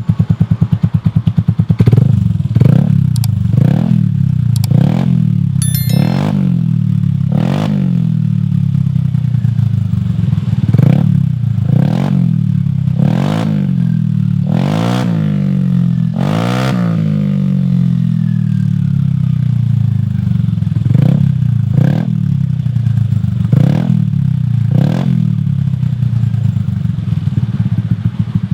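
Yamaha NMAX 155 scooter's single-cylinder four-stroke engine running through a Shijiro MT GP aftermarket racing exhaust, idling between repeated short throttle blips that rise and fall about once every second or so.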